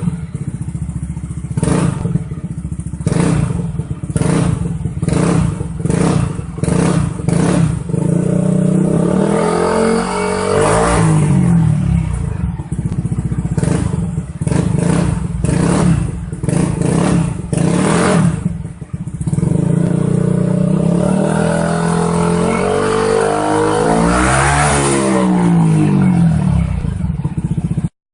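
Yamaha NMAX scooter's single-cylinder engine running through an aftermarket replica racing full-system exhaust, revved in rapid throttle blips and, twice, in longer rev sweeps up and back down.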